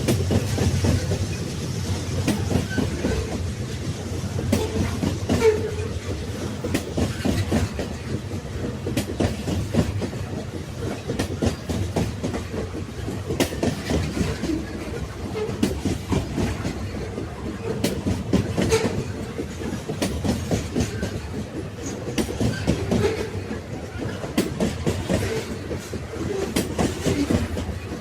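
Railway wagons rolling along the track: a steady low rumble with frequent, irregular clicks and knocks of the wheels on the rails.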